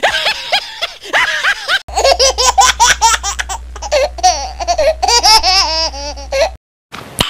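Dubbed-in laughter sound effects: a run of rhythmic laughing, then about two seconds in a second, higher-pitched laughing clip over a low hum, which cuts off abruptly near the end.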